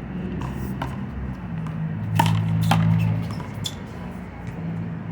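One-wall handball rally: a small rubber ball struck by hand and smacking off the concrete wall and ground, several sharp smacks with the loudest about two to three seconds in, over a steady low hum.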